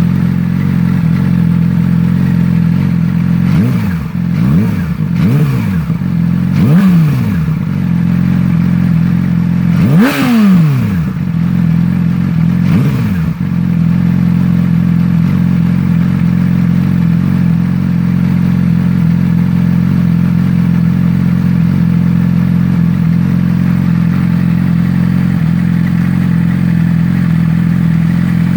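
2008 Yamaha R6 inline-four running without its muffler. It idles steadily, then takes about six quick throttle blips that rise and fall in pitch, the biggest about ten seconds in, before settling back to idle.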